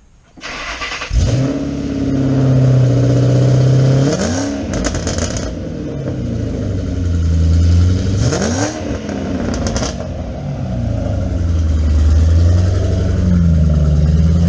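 Ford Mustang engine cranked and catching about a second in, then idling through a newly fitted cheap cat-back exhaust with mufflers. It is revved briefly twice, about four and eight seconds in.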